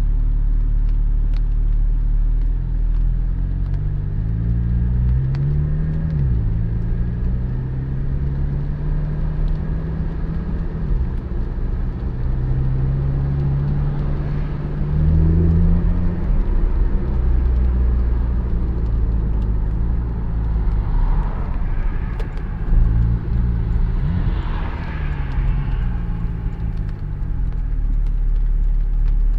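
Porsche 718 Spyder's naturally aspirated 4.0-litre flat-six pulling through the gears: its pitch climbs, then drops at each upshift, several times over, over a steady low road rumble.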